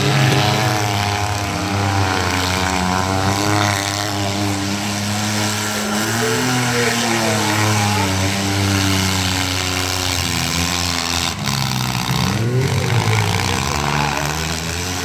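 Engines of several compact demolition-derby cars running hard and revving, their pitch rising and falling as they accelerate across the arena.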